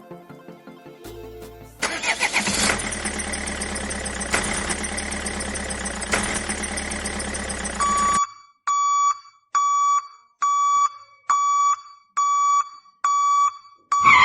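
A truck's engine starting and running with a heavy clatter, then cutting off, followed by a reversing alarm beeping in a steady single tone about once a second.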